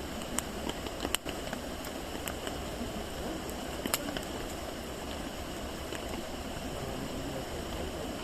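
Wood campfire crackling, with a few sharp pops over a steady rushing hiss; the loudest pops come about a second in and again about four seconds in.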